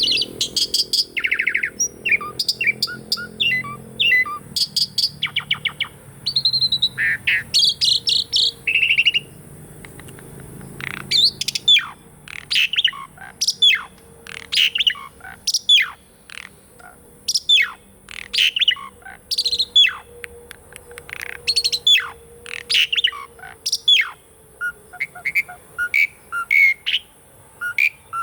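Asian pied starling (jalak suren) singing: a varied run of harsh, buzzy and whistled notes, then, about eleven seconds in, a long string of quick whistles that slide steeply downward.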